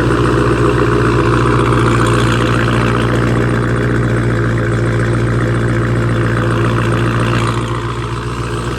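Car engine running steadily, a low even hum that eases slightly near the end.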